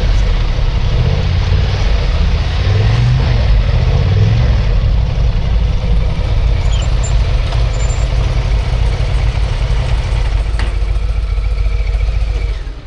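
Motorcycle engine running under way, with heavy wind noise on the microphone; the engine pitch rises and falls a few times in the first few seconds. The sound cuts off suddenly near the end.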